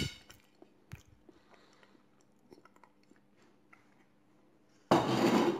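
Faint chewing of a soft mouthful of semolina dessert, with a fork clinking on a china plate at the start and again about a second in. Near the end comes a louder rustling noise lasting about a second.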